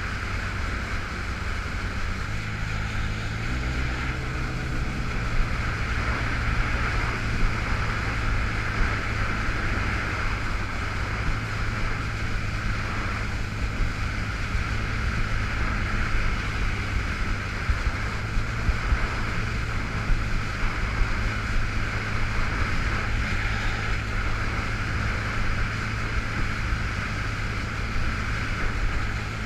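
2005 Yamaha FX Cruiser H.O. personal watercraft engine running steadily under way, with wind and water rushing past. The engine note shifts about three to five seconds in. The craft is stuck in its reduced-power low mode.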